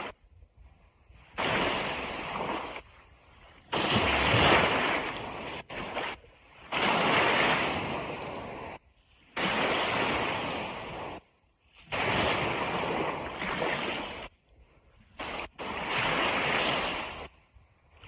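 Ocean surf washing on a beach, heard as a string of rushing swells about every two seconds. Each swell starts and cuts off abruptly, with near-silent gaps between.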